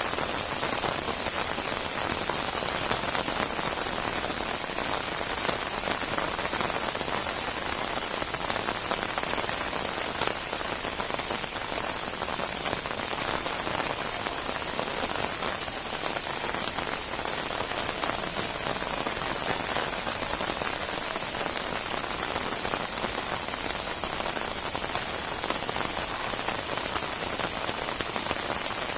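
Steady heavy rain falling, a dense even hiss of many drops with fine pattering.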